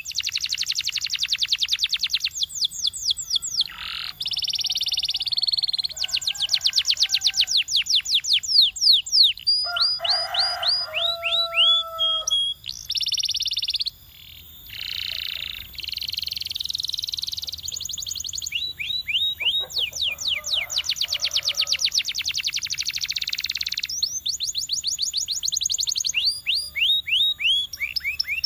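Domestic canary singing a continuous song of rapid trills. Each run repeats one note many times a second for a second or two before switching to another, with a few lower, held notes about ten seconds in.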